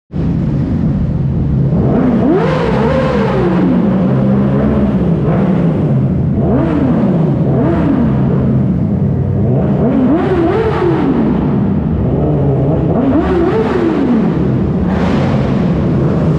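Yamaha sport motorcycle engines running through a concrete parking garage, throttle blipped about six times so the revs rise and fall over a steady engine note.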